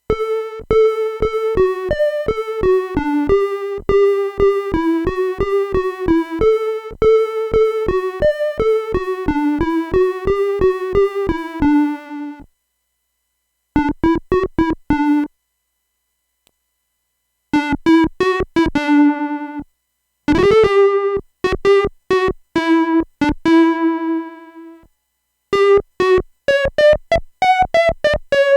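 Circuit-bent Concept Lite 'n Learn toy keyboard playing quick phrases of single notes, each note starting with a click. The phrases are broken by short pauses, and one note slides up in pitch about twenty seconds in.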